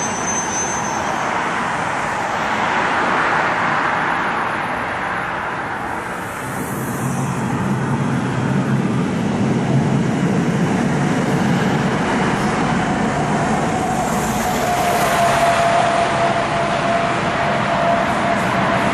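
Steady rolling rumble of a long freight train of open wagons crossing a railway bridge, mixed with road traffic passing on the dual carriageway below. A faint steady whine joins in during the second half.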